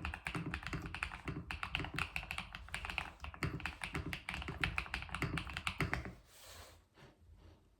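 Fast, continuous typing on a clacky keyboard, many keystrokes a second, stopping about six seconds in; after that only a brief soft rustle and a few scattered light clicks.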